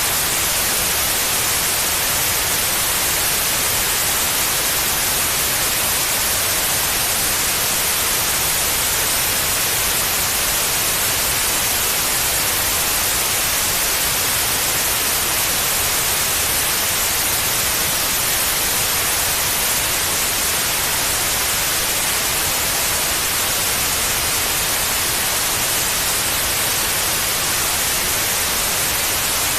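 Steady white noise: an even, unchanging hiss, heavy in the treble.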